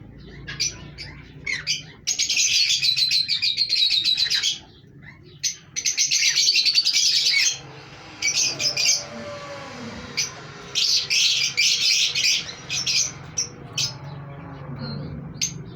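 Green pet parrots chattering in rapid bursts of high, fast chirps, three long bursts and several shorter ones.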